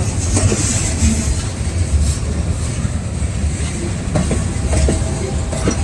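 Freight cars of a maintenance-of-way rail train rolling past close by: a steady low rumble of steel wheels on the track with scattered clicks and knocks from the wheels going over rail joints.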